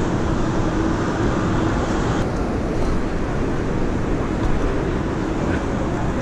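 Steady rushing noise of wind on the microphone and city traffic while riding a bike down a street, with a faint steady hum underneath.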